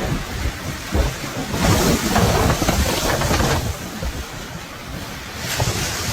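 Storm wind gusting and buffeting the microphone, with a low rumble throughout; a louder rush of wind swells about a second and a half in and eases off about two seconds later.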